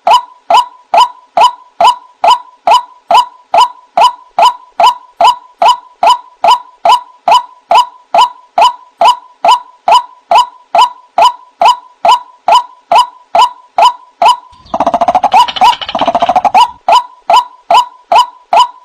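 White-breasted waterhen (ruak-ruak) lure call: a short 'wak' note repeated evenly, a little over two a second, each note dropping slightly in pitch. About fifteen seconds in, two seconds of louder, rougher, overlapping calling break in before the even notes resume.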